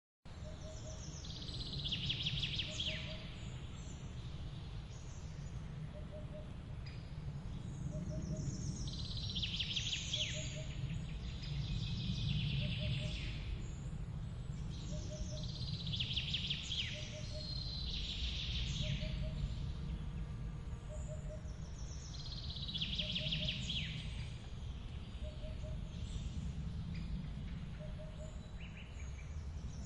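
A waterfall's steady low rumble of falling water, with a songbird repeating a short bright song phrase every three to four seconds. A faint short call repeats about once a second. The sound starts abruptly just at the beginning.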